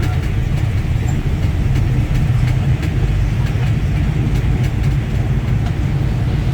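A train running, heard from the locomotive's cab: a steady, loud low rumble with faint scattered ticks.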